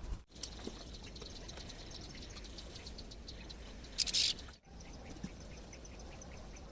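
Small birds chirping, quick high notes repeating several times a second, with a short loud rush of hiss about four seconds in. The sound drops out abruptly twice, as at cuts.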